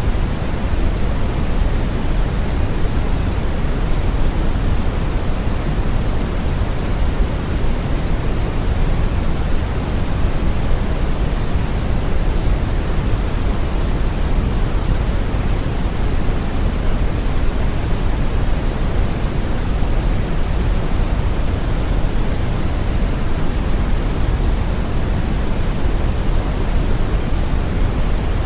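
Synthetic brown noise: a steady, deep hiss with most of its weight in the low end, unchanging throughout.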